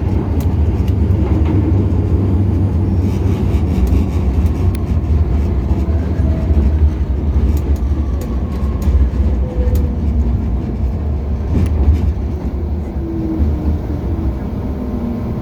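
Hong Kong MTR electric multiple unit train arriving at a station: a heavy, steady rumble of wheels on rail with scattered clicks, and the motor whine falling in pitch as the train brakes.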